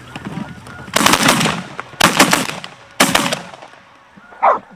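Three loud shotgun blasts about a second apart, each trailing off in a rolling echo, as hunters shoot into decoying snow geese.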